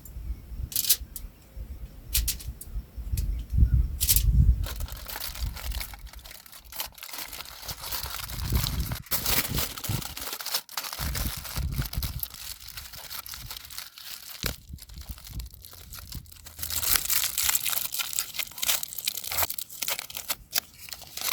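Irregular crinkling and rustling, as of packaging being handled, with scattered clicks and a low rumble in the first few seconds.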